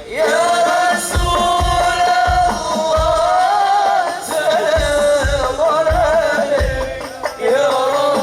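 A solo voice singing a long, drawn-out melismatic line of an Arabic devotional qasidah, over steady strokes of hadrah frame drums (rebana).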